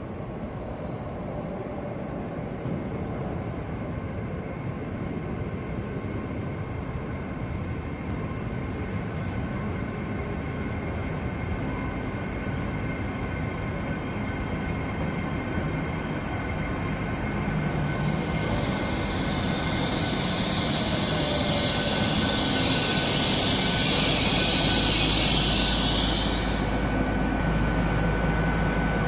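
TransPennine Express Hitachi Class 802 train running into a platform and braking to a stand, its rumble building steadily. About two-thirds of the way through a loud high hiss sets in and cuts off sharply shortly before the end as the train stops.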